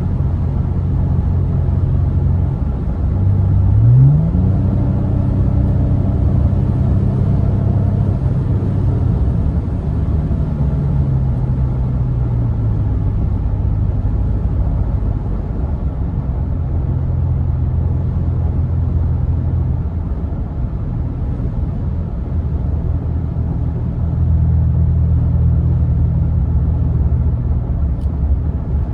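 Exhaust of a 2022 Nissan Frontier's 3.8-litre V6 running steadily. The engine speed rises quickly about four seconds in, holds, and eases back down around ten to twelve seconds in. It gets louder again near the end.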